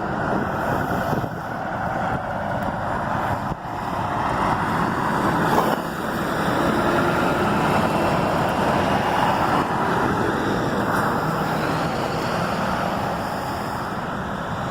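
Steady motor vehicle noise with no clear rhythm, dipping briefly a little over three seconds in.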